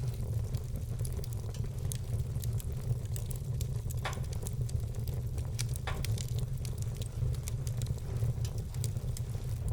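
Wood fire burning in a fireplace, crackling with many small irregular snaps. Louder pops come about four and six seconds in, over a steady low rumble.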